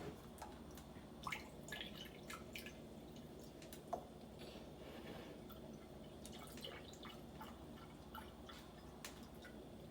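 Chicken broth being poured into a measuring cup: faint dripping and trickling, with a few small clicks scattered through.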